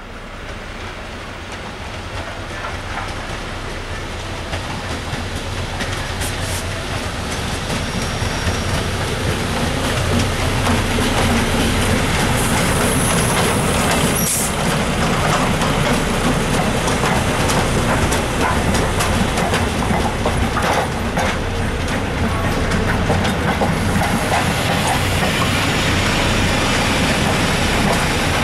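GB Railfreight Class 73 locomotive 73962 approaching and passing with a rake of Network Rail test coaches. A steady low engine hum and rolling-wheel noise grow louder over the first ten seconds, then hold as the locomotive and coaches go by, with scattered wheel clicks and a brief high squeal near the middle.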